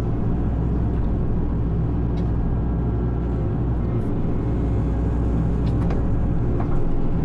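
Hitachi excavator's diesel engine running steadily under work, with a few faint sharp clicks over it.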